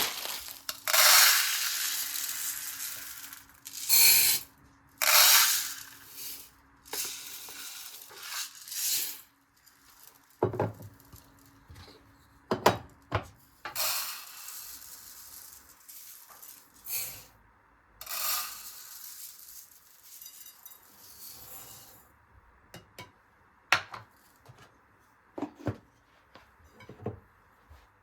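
Kitchen work: dishes, pots and utensils clinking and knocking, with several short bursts of hissing, like sizzling or running water.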